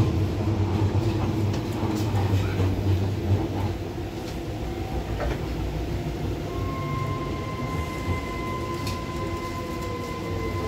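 Docklands Light Railway train running, heard from inside the carriage: a low rumble with scattered clicks from the wheels on the track, easing a little about four seconds in, and a steady whine that sets in over it at about six seconds.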